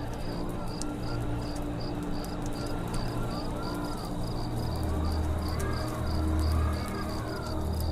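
Crickets chirping in an even rapid pulse, about four chirps a second, over the low steady rumble of a campfire with occasional sharp crackles.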